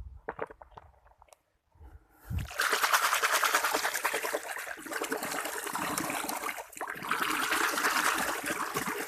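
Water running onto a muddy toy vehicle as it is rinsed clean, starting about two and a half seconds in after a few small handling clicks, with a short break near the end.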